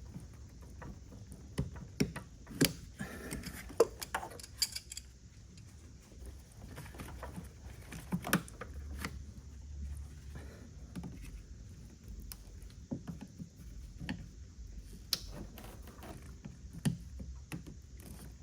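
Irregular metallic clicks, clinks and light knocks of hand tools and parts being handled as a heater hose is worked off the engine, the sharpest clicks in the first few seconds and again about eight seconds in.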